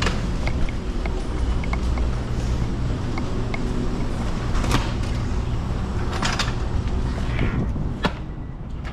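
Truck running with a steady low rumble, with scattered clicks and rattles and a few short rushes of noise. A sharp click comes about eight seconds in, after which the sound drops and is quieter.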